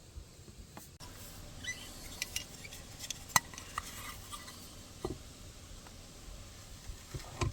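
Scattered clinks and taps of cutlery against dishes, a few ringing briefly.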